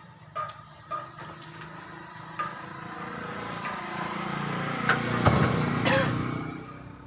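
A motor vehicle's engine growing louder, loudest about five to six seconds in, then fading as it passes by. A few short knocks near the start.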